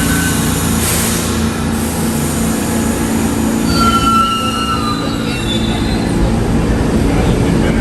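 New York City subway train running through a station with a steady rumble; about four seconds in, its wheels squeal briefly in a slightly falling tone.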